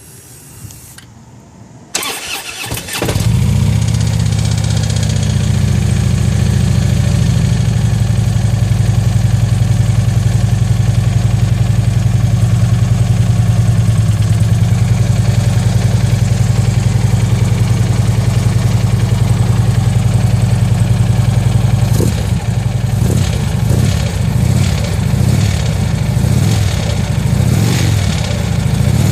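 Harley-Davidson V-twin engine cranked by its starter and catching about three seconds in, then idling steadily with an even beat; from about two-thirds of the way through it runs unevenly with repeated surges. The owner hears an unusual knock from the motor in it.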